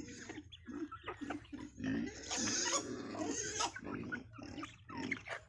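Farm animals calling in a string of short, low calls, with a louder, noisier stretch in the middle that lasts about a second and a half.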